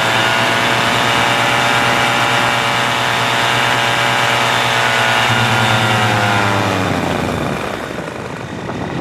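An engine running at high, steady revs, then winding down about seven seconds in.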